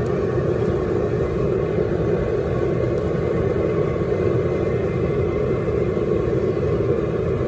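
Propane burner under a seafood-boil pot running on full flame: a loud, steady rushing roar with a low rumble, keeping the water at a boil.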